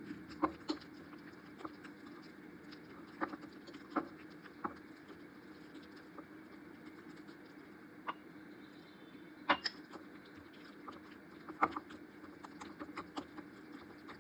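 Light, irregular taps and clicks of kitchen utensils against bowls and dishes during food preparation, over a steady low hum.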